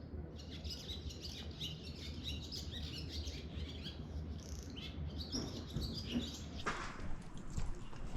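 Many small birds chirping busily over a steady low hum, with a noisier rush joining near the end.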